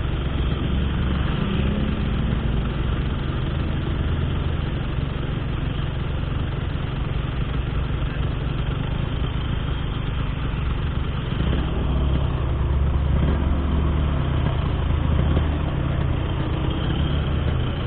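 Motorcycle with an Altech C17 aftermarket exhaust, riding at a steady cruise. Its low, even exhaust note sits under a haze of road and wind noise and swells a little about twelve seconds in.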